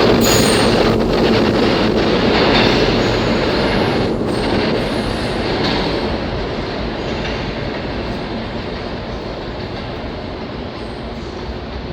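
New York City subway train running through the station, with a thin high wheel squeal in the first second or so; the rumble slowly fades.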